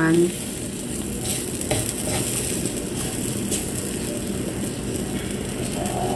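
Pancake batter sizzling steadily in a non-stick pan cooked with little or no oil, with a few faint light clicks.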